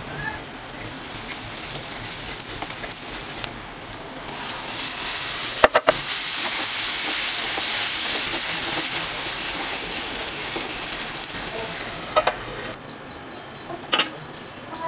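Onions frying in oil in a clay pot, sizzling. About four seconds in the sizzle grows much louder as chopped tomatoes go into the hot oil, with a few sharp knocks against the pot, and a wooden spatula stirs the mixture. Near the end the sizzle eases to a quieter simmer, with a couple of clicks.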